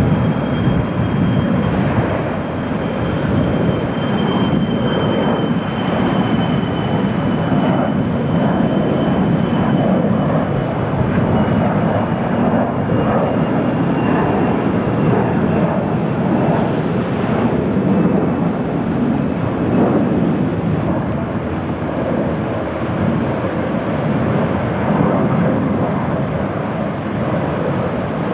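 Jet airliner engines running, a steady loud rush with a thin high whine that slowly falls in pitch over about twenty seconds.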